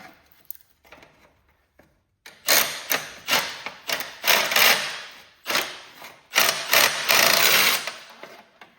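Hand-tool work on a garden tractor: a few light clicks, then, starting about two seconds in, a run of about ten loud, sharp mechanical rattling bursts in quick succession that stop near the end.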